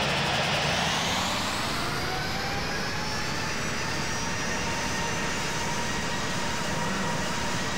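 Jet engines of an American Airlines Airbus A321 running over a steady rush of noise. Their whine rises in pitch over the first two or three seconds, as the engines spool up, then holds steady.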